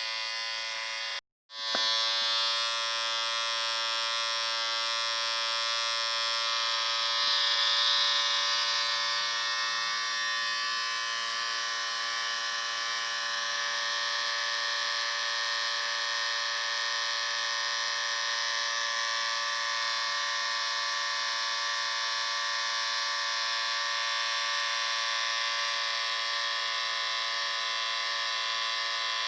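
Electric shaver buzzing steadily. The buzz cuts out completely for a moment about a second in, then starts again.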